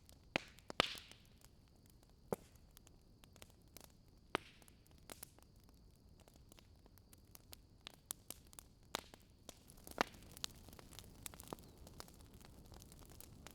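Wood fire in a fireplace crackling: scattered sharp pops and snaps over a faint steady hiss, with a few louder snaps in the first few seconds and quicker, smaller crackles in the second half.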